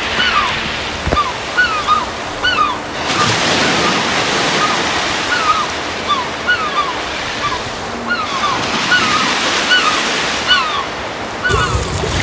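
Bacon sizzling in a pan over a campfire, a steady hiss with short chirps recurring through it.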